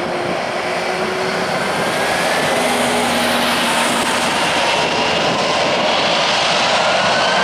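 Airbus A330-303 twin-jet running its General Electric CF6-80E1 turbofan engines loud, a rushing jet noise with faint whines slowly rising in pitch as the sound builds slightly.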